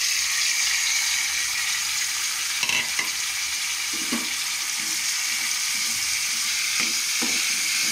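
Chopped ivy gourd sizzling steadily in hot oil in an aluminium kadai, just added to the tempering of mustard seeds and dried chillies. A metal spatula stirring the pieces knocks and scrapes against the pan a few times in the second half.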